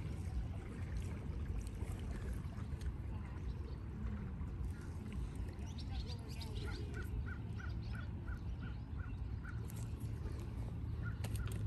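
A bird calling: a quick run of about ten short, sharp notes, about four a second, starting about halfway in, over a steady low rumble.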